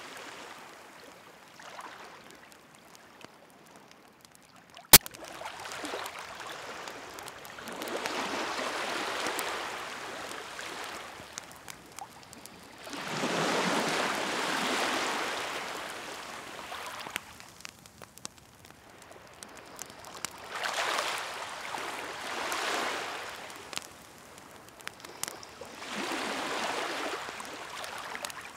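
Waves washing in and drawing back in slow swells every several seconds, with a wood fire crackling over them in scattered sharp pops, one loud pop about five seconds in.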